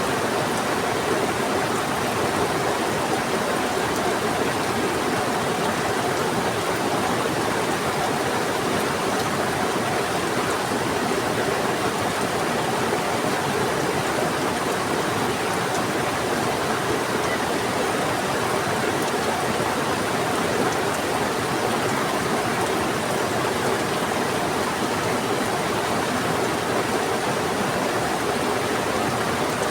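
Heavy rain together with a fast-flowing river, making a steady, even rushing noise with faint scattered drop ticks.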